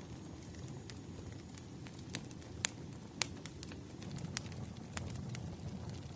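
Wood fire crackling: irregular sharp pops and snaps over a low, steady rumble of the burning logs, with the two loudest pops near the middle.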